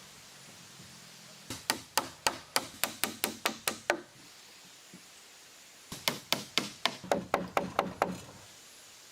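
Hammer driving nails into wood: two runs of about ten quick blows each, roughly four a second, with a pause of a couple of seconds between them.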